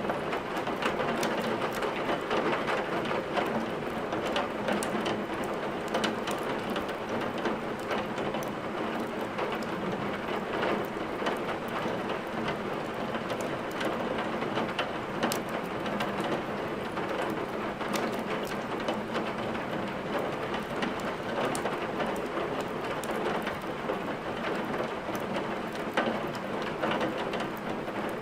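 Steady heavy rain mixed with a wood fire: a continuous even hiss with scattered sharp crackles from burning logs.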